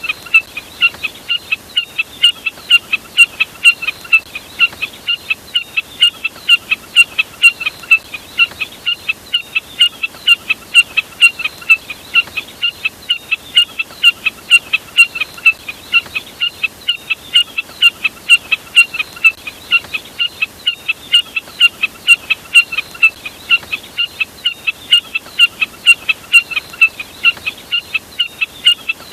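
Jack snipe calling: a long, even run of short sharp notes, about three a second, repeating without a break.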